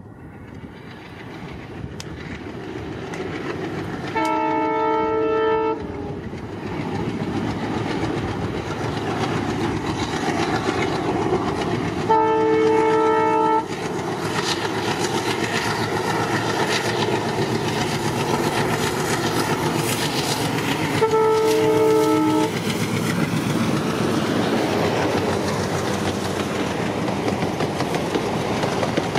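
Diesel-hauled train approaching, its rumble building steadily, with wheels clacking on the rails. The locomotive's multi-tone horn sounds three times, each blast about a second and a half long and roughly eight seconds apart.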